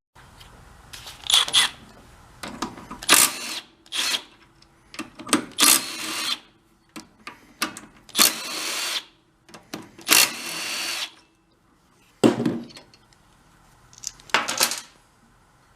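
A power driver running in short bursts, about eight times, spinning out the four bolts that hold the rocker assembly on a small four-stroke engine's cylinder head.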